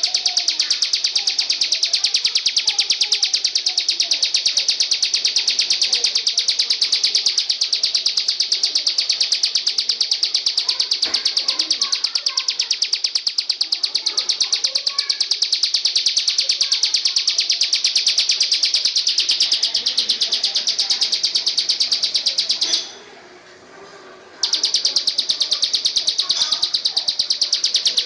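Singing insect giving a continuous buzzing trill of rapid, even pulses. It stops for about a second and a half near the end, then starts again.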